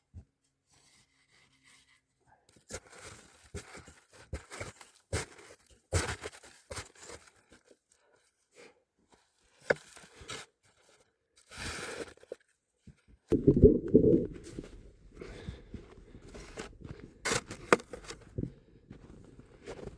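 Hard, icy snow being scraped and cut in short, irregular strokes. From about two-thirds of the way in, wind buffets the microphone with a low rumble.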